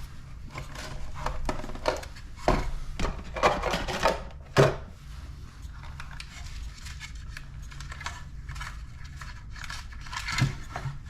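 Slot car's plastic packaging being opened by hand to take the model out: irregular rustling, clicks and light knocks. They are busiest between about two and a half and five seconds in, with the loudest sharp click near the five-second mark, then lighter scattered ticks.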